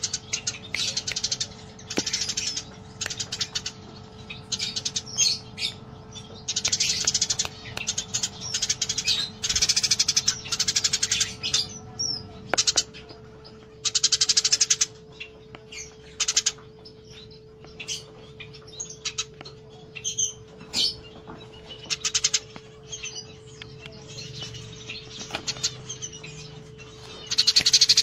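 Sparrows chirping in rapid, dense bursts of about a second each, repeated with short gaps: excited, agitated 'fighting' chatter. A steady faint hum runs underneath.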